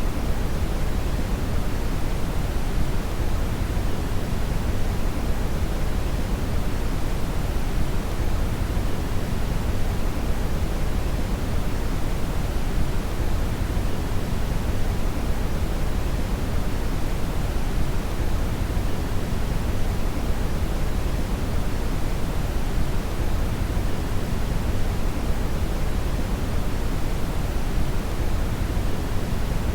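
Steady synthetic brown noise (red noise): an even, unchanging rushing hiss weighted heavily toward the low end.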